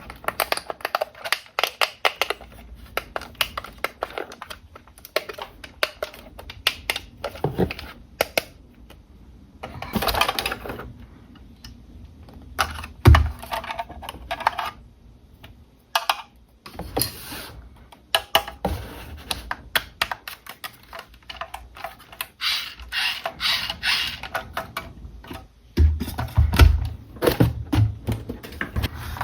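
Toy packaging and toy parts being handled during an unboxing: rapid clicks and taps with short bursts of rustling, and a couple of heavier thumps about halfway and near the end.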